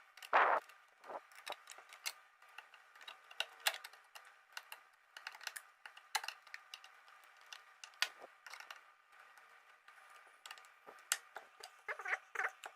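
Irregular small clicks and taps of metal hardware and tools being handled while wire leads are fastened to terminals, with one louder knock right at the start.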